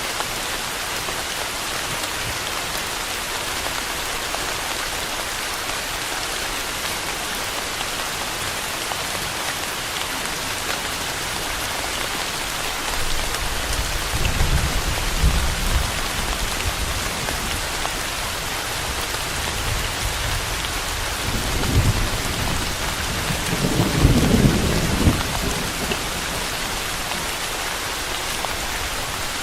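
Steady rain hissing on a surface, with thunder rumbling low twice: once about halfway through and again, louder and longer, a few seconds later.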